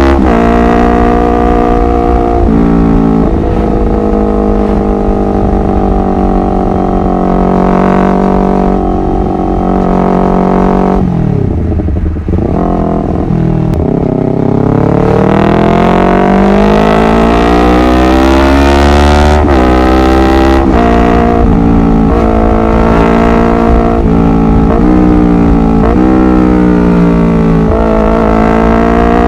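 Honda CBR250RR motorcycle engine under way, its pitch rising and stepping back with gear changes. About eleven seconds in it drops sharply as the throttle closes, then climbs steadily for several seconds as the bike accelerates again.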